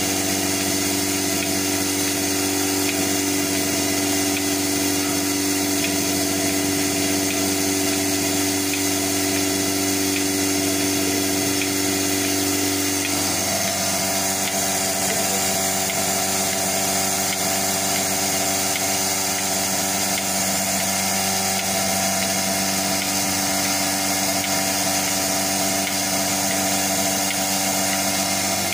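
A steady machine hum with several held tones over a noisy background; the tones shift pitch about halfway through, then run on evenly.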